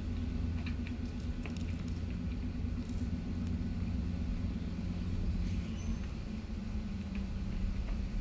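Steady low rumble, with faint, irregular footsteps of a person doing stepping lunges on the ground.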